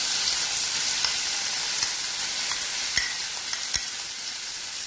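Ground chicken chutney sizzling steadily in hot oil with popped mustard seeds as it is stirred in the pan, with a few scattered sharp clicks.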